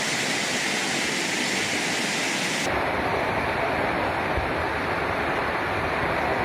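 Floodwater rushing in a steady roar. About two and a half seconds in, the sound turns abruptly duller and deeper.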